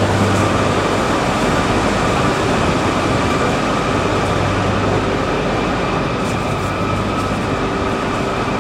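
Shinkansen bullet train moving on the track at a station: a steady, loud rushing of wheels and air with faint high steady tones.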